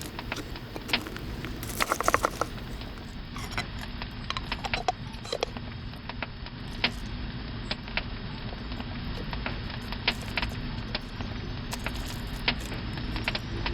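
Campfire crackling with scattered sharp pops over a low steady rumble, and a brief run of light metallic clinks about two seconds in.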